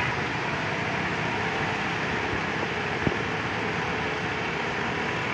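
Heavy rain falling, a steady even hiss, with one short tap a little after halfway.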